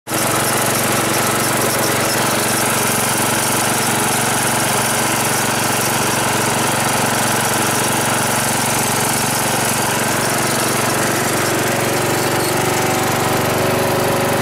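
Toro two-stroke snowblower engine running at a steady speed.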